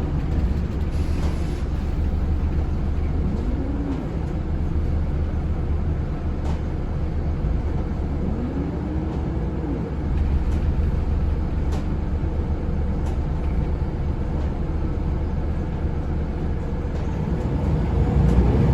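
Scania L94UB bus engine running with a steady deep drone, with a few short rises and falls in pitch and a climbing pitch near the end as it pulls away.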